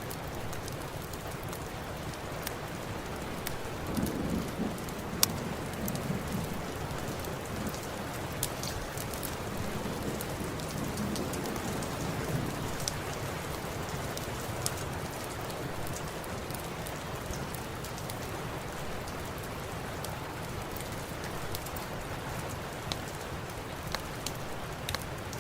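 Steady rain hiss with scattered sharp crackling pops from a fireplace, the loudest a little after five seconds in. A low rumble swells about four seconds in and again around ten to twelve seconds.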